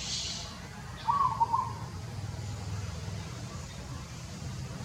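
A short, high animal call of two or three quick notes, once, about a second in, over a steady low rumble.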